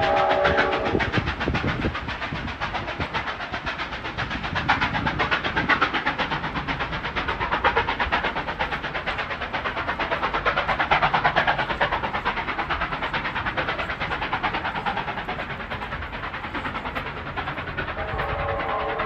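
A steam-hauled heritage passenger train rolling away over the rails, its wheels making a rapid, even clatter that swells and fades. A short whistle chord sounds at the start and again near the end.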